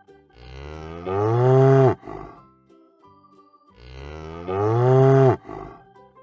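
An ox mooing twice, two long low calls a couple of seconds apart, each rising in pitch and dropping off at the end. Soft background music plays between them.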